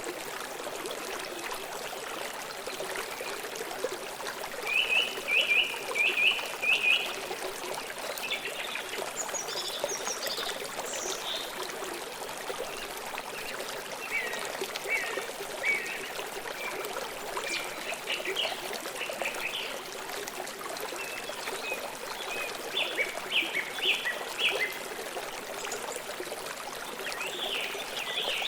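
River water flowing steadily, with forest birds singing over it in several bouts of quick, high chirps, loudest at about five seconds in and again at about twenty-three seconds.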